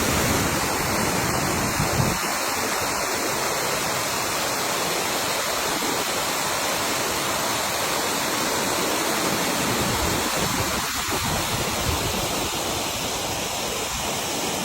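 Waterfall's steady rush of falling water. A deeper low rumble under it drops away about two seconds in.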